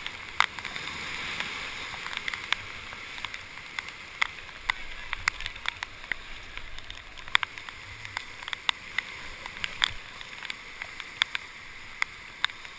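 Rushing whitewater of a river running at about 3000 cfs, heard from a paddle raft, with frequent irregular sharp clicks and splashes over it.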